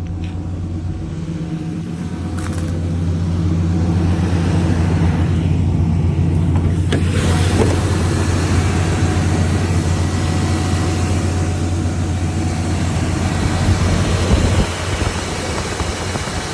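Truck engine idling steadily with a low hum, running smoothly soon after a cold start in near-freezing weather. It grows louder about four seconds in, and a rougher hiss joins it from about seven seconds.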